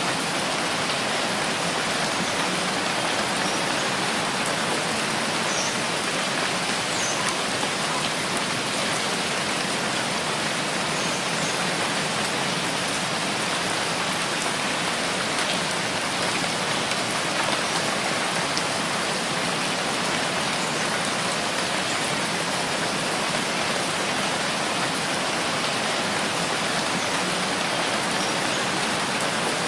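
Steady rainfall, an even, unbroken hiss of many drops.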